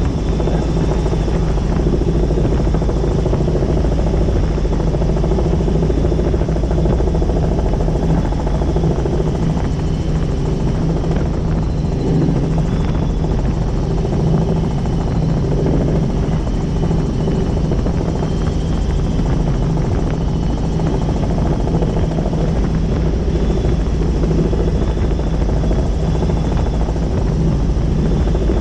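Helicopter in flight: steady, loud rotor and engine noise.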